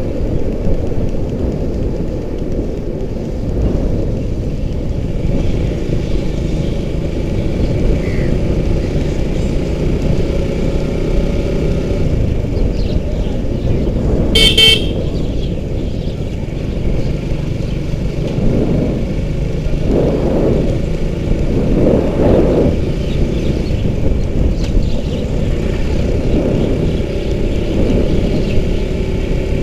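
Motorcycle riding along a highway: a steady low engine and road rumble, with one short horn honk about halfway through.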